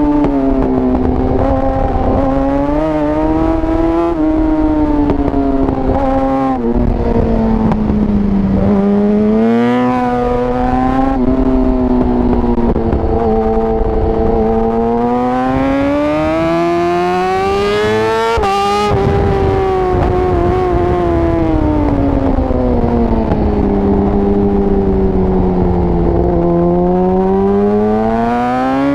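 Yamaha R6's inline-four engine heard onboard at racing pace, its pitch climbing and falling as the bike accelerates and slows through the turns. There is a sharp break in the engine note about two-thirds of the way through.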